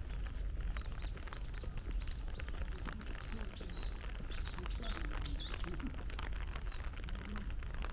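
Heavy rain falling, with many small drop ticks, and a bird calling in the middle: a string of short, sharp notes that bend in pitch.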